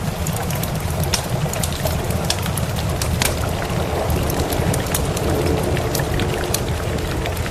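Steady rain mixed with a wood fire crackling: many sharp pops and ticks scattered throughout, over a continuous low rumble.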